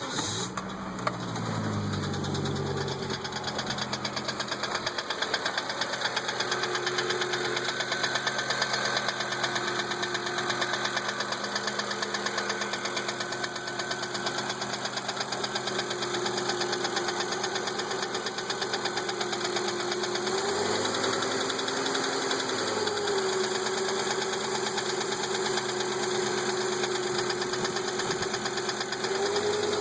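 1997 Volvo 850 GLT's 2.4-litre five-cylinder low-pressure turbo engine idling with a steady, rapid knocking whose cause the owner does not know. Its revs settle down in the first couple of seconds, and briefly rise and fall again about 21 seconds in.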